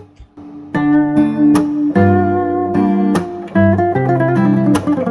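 Background music: acoustic guitar picking a melody, with notes plucked and held.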